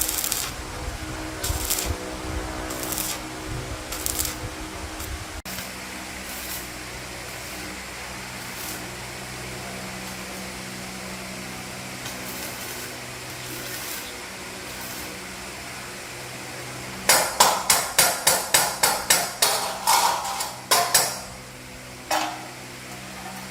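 Hammer striking metal: a few scattered blows, then a quick run of about a dozen blows, three or four a second, near the end, over a steady low hum.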